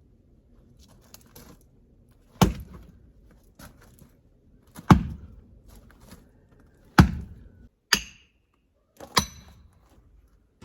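Axe blows splitting freshly cut, still-green pine rounds: four heavy chops about two to two and a half seconds apart, with a lighter, slightly ringing clack between the last two.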